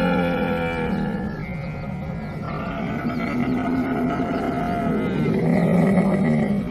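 Camel vocalising in long, rough, low calls that run on without pause, shifting pitch about a second in and growing louder near the end before breaking off.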